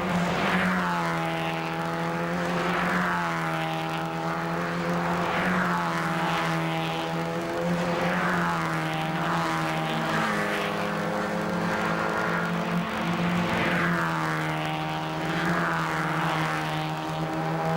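Mazda MX-5 race cars driving past one after another, the engine pitch dropping as each one goes by, over a steady engine drone.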